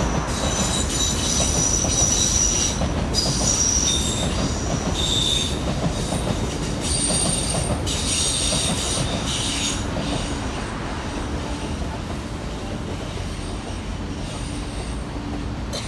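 DART electric commuter train running over a steel lattice girder railway bridge, its wheels squealing in high, wavering tones on and off over a steady rumble. The squealing stops about ten seconds in and the rumble slowly fades.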